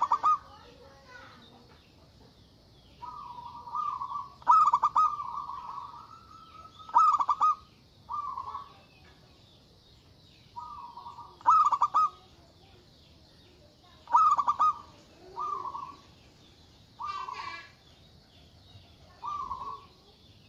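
Zebra dove (perkutut) cooing over and over, about ten short rolling, stuttering coo phrases a second or two apart, with faint high chirping behind them.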